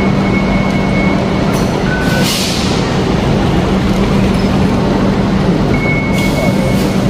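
Steady running noise of a large vehicle with a constant low hum, two short high electronic beeps near the start and near the end, and a brief hiss about two seconds in.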